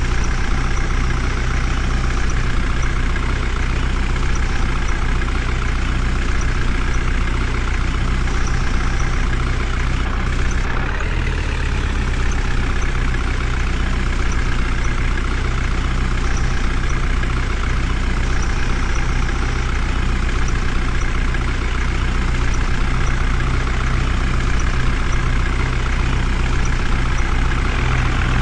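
Heavy diesel engine running steadily, with a brief shift in its sound about eleven seconds in.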